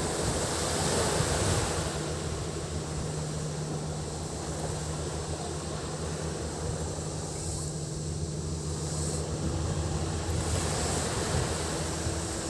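Sea waves washing onto a beach, swelling about a second in and again near the end, with cicadas buzzing in a high, steady drone. A low, steady engine hum runs under it.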